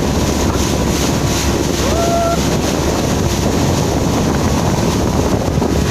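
Wind buffeting the microphone and water rushing past a moving boat, over a steady low hum from its motor. A brief high voice sounds about two seconds in.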